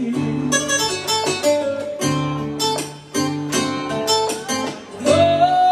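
Guitar music with plucked, picked notes over a steady bass line, playing an instrumental fill between sung lines of a ballad. Near the end a singer's voice comes in on one long held note.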